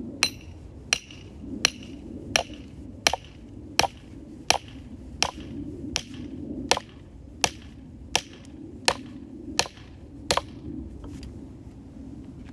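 A tool striking firewood with a steady run of about fifteen hard blows, roughly one every 0.7 seconds. The first blows ring briefly, and the strikes stop about ten seconds in.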